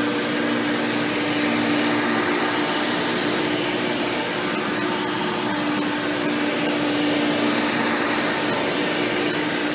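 Hoover Power Drive Supreme upright vacuum cleaner, fitted with a 20-blade impeller fan, running steadily while vacuuming: a constant motor hum over a rush of air.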